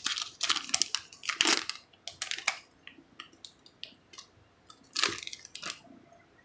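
Foil Pokémon booster pack wrapper crinkling as it is torn open and handled. The crinkling comes in irregular bursts that thin out after about two and a half seconds, with one more short burst about five seconds in.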